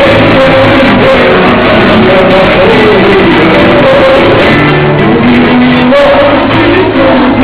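A group of voices singing together to a strummed guitar, loud and a little rough-edged.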